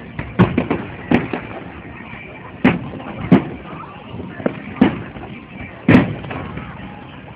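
Aerial fireworks shells bursting overhead in a series of about eight booms at uneven intervals, the loudest about six seconds in.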